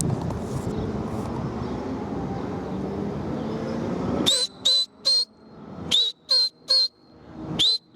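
A man whistling loud, short, rising blasts in three quick sets of three, to drive his flying pigeons higher. Before the whistling there is only a steady outdoor background hum.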